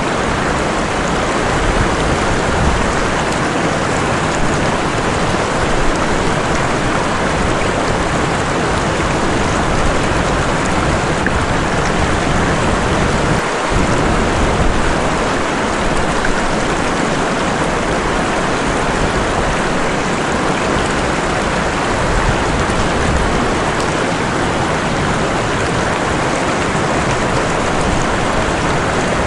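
Steady rushing noise of a waterfall mixed with heavy rain, continuous and even.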